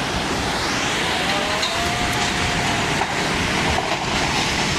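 Loud, steady rush of floodwater: a heavy, even roar, with a faint drawn-out tone above it in the middle.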